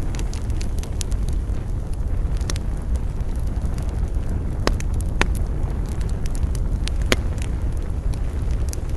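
Campfire crackling, with sharp pops of burning wood scattered irregularly (the loudest about halfway through and near the end) over a steady low rumble.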